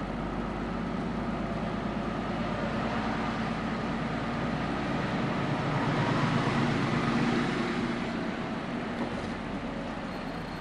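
HGV lorry's diesel engine running as the truck manoeuvres at low speed into a parking spot, heard from the cab. It grows somewhat louder around the middle, then eases off.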